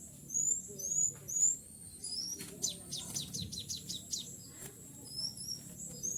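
Kutilang sutra (a bulbul) calling: short rising high chirps, then a quick run of sharp notes at about four or five a second, then more chirps near the end.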